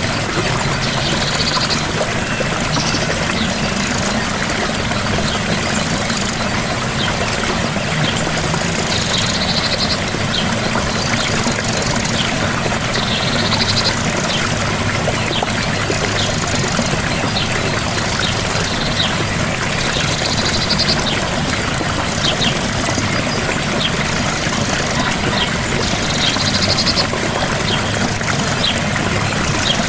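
Gentle waterfall: a steady rush of falling water, with short high chirps recurring every few seconds over it.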